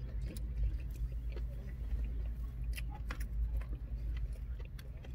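Close-up chewing and wet mouth clicks of someone eating sushi, with short sharp clicks scattered through, over a steady low hum in a car cabin.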